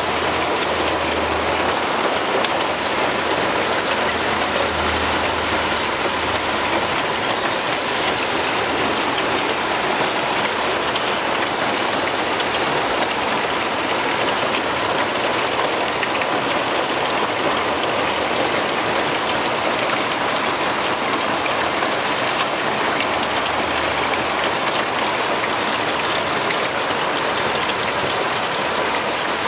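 Heavy rain pouring down steadily, a dense hiss of drops striking surfaces.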